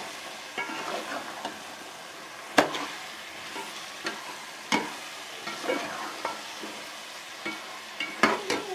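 Cauliflower and potatoes sizzling in ghee and spice masala in a cooking pot while a spoon stirs them. The spoon scrapes and knocks against the pot several times, sharpest about two and a half seconds in, just before five seconds, and near the end.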